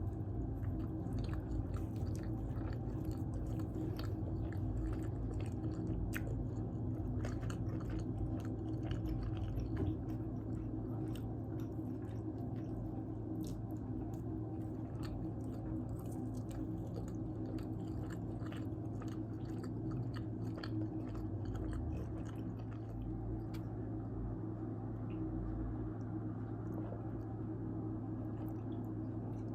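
A person chewing and biting pizza close to the microphone: irregular wet clicks and crunches. A steady low hum sits underneath.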